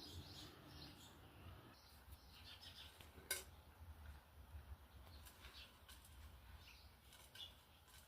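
Faint scattered bird chirps, with a single sharp clink about three seconds in, typical of a cat's food bowl being knocked while it eats.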